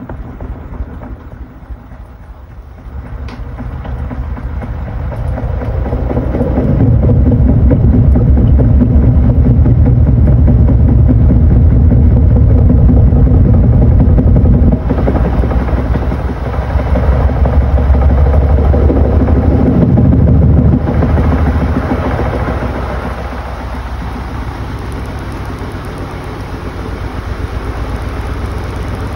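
Panasonic NA-FA80H8 washing machine running mid-cycle. The motor and tub sound builds over the first several seconds, runs loud and heavy for about fourteen seconds, then eases to a lower steady level.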